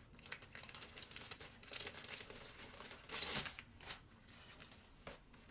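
Packaging crinkling and rustling as it is handled and opened, with a louder tearing sound a little over three seconds in.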